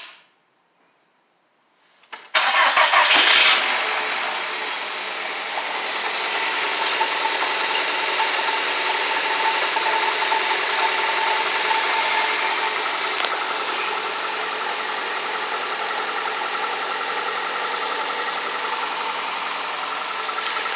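Car engine starting about two seconds in, briefly running up as it catches, then settling into a steady idle. The engine is suspected of head gasket failure; its running gives no plain sign of it.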